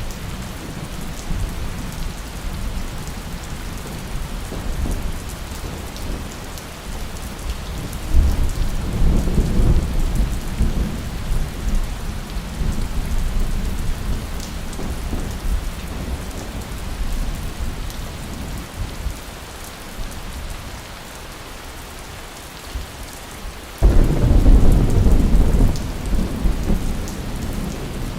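Steady heavy rain with rolling thunder: a rumble swells about eight seconds in, and after a quieter lull a louder clap of thunder breaks suddenly near the end and rumbles on.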